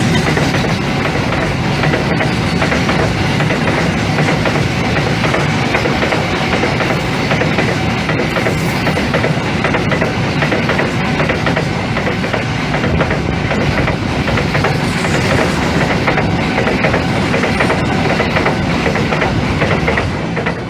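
Passenger train running past at speed, its wheels clicking steadily over the rails in a continuous clickety-clack.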